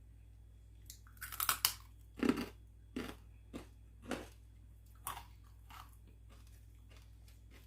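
Close-miked eating: a burst of crunchy bites and chewing about a second in, then single crunches every half-second or so, fading out near the end.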